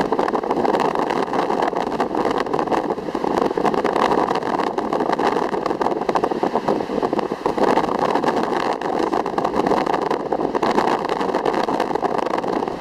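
Ocean waves: a steady, unbroken rush of surf.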